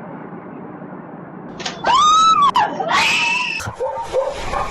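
A loud, drawn-out wailing cry, then a rapid run of short yelps from excited dogs barking.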